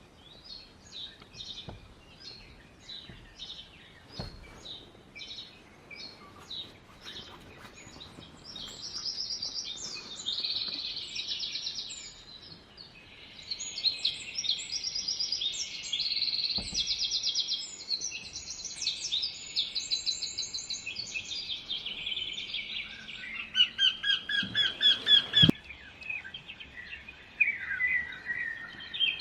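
Small birds chirping and trilling: series of short high notes and fast rattling trills, with the loudest run of rapid chirps a few seconds before the end.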